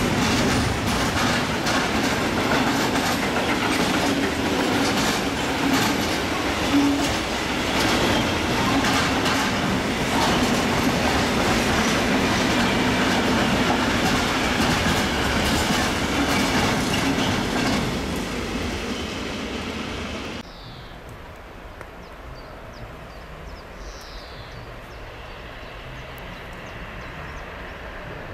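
Freight train of tank wagons rolling past, its wheels clattering steadily over the rail joints. The sound drops away sharply about twenty seconds in as the train clears.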